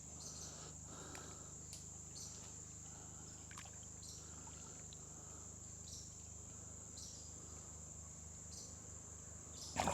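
Insect chorus: a faint, steady high-pitched trilling that never lets up, with a few faint short chirps scattered through it.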